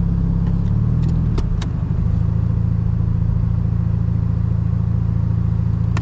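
Mazda RX-7 FC's 13B rotary engine running, heard from inside the cabin. About a second and a half in its note drops and shifts, with a brief dip in level and a couple of sharp clicks, then it settles into a steady low note.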